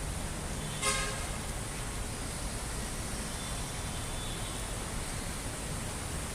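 A short vehicle horn toot about a second in, over a steady wash of street noise.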